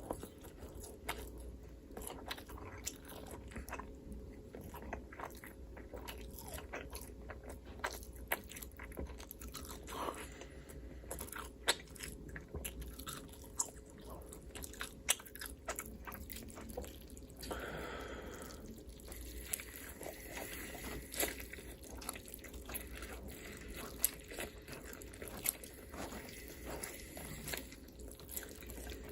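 Close-miked eating: crunchy bites and chewing, with many sharp clicks scattered throughout and a denser crunch about two thirds of the way in.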